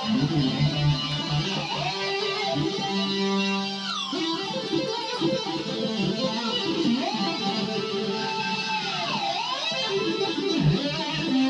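Korg Kronos synthesizer lead being played, its notes bent in deep swoops down and back up with the ribbon controller and joystick, adding grit to the tone.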